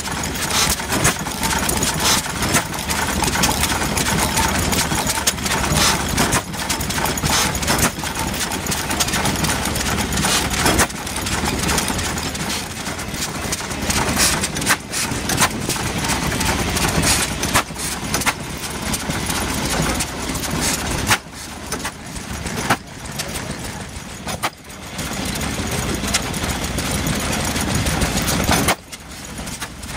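Vintage Richard Hornsby & Sons stationary engine running, a continual series of sharp beats, with a few brief dips in the last several seconds.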